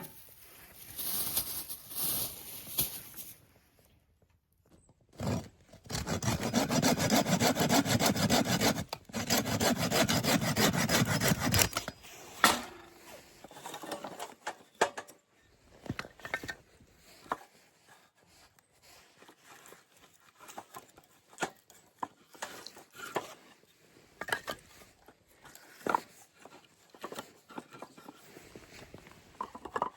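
A hand saw cutting wood in rapid rasping strokes, two runs of about three seconds each, then scattered light knocks and clicks.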